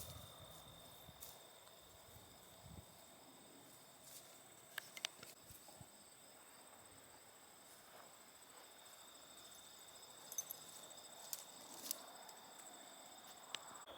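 Faint, steady, high-pitched trilling of insects, with a few scattered small clicks.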